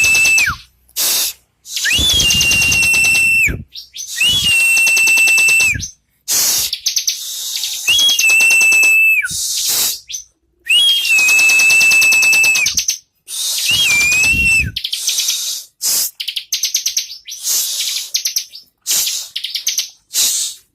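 Bar-winged prinia (ciblek) singing: about six loud phrases, each a steady high whistle overlaid with a fast buzzing trill, repeated every two to three seconds. The phrases give way to softer, broken chatter near the end.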